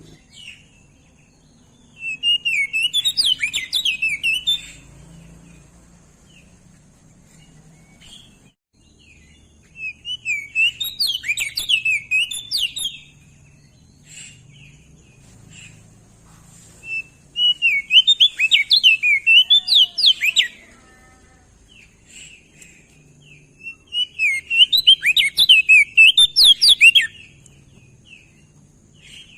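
Crested white-eye (opior jambul) singing four separate phrases, each a rapid run of high, chirpy warbled notes lasting two to three seconds, with pauses of several seconds between them.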